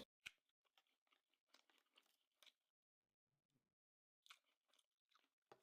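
Near silence, with a few faint, scattered mouth clicks of chewing sushi.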